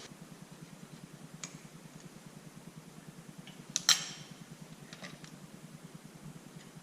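A few light clicks and one sharp clink about four seconds in, over a steady low hum.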